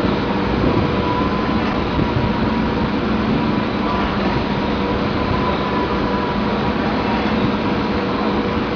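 Heavy machinery running steadily: a continuous rumbling noise with constant hums.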